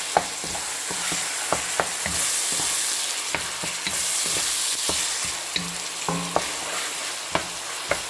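Ground chicken with tomatoes and bell pepper sizzling in oil in a wok, while a wooden spatula stirs it, scraping and tapping against the pan in irregular sharp clicks over a steady hiss.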